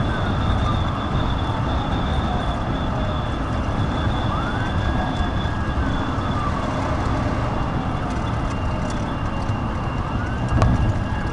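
Police siren on wail, sweeping slowly down and back up in pitch over a few seconds at a time, over steady road and engine noise from the pursuing vehicles.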